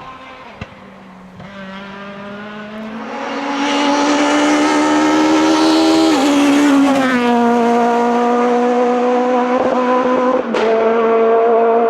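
Naturally aspirated Group F2000 rally car engine at full throttle, growing loud as the car approaches with its pitch climbing. The pitch drops sharply about six seconds in, then the engine holds steady at high revs with a brief break near the end.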